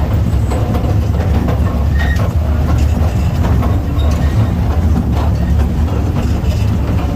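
Taipingshan Bong Bong Train, the small diesel train of the Taipingshan forest railway, running with a steady low engine drone and scattered clicks and knocks from its wheels on the track.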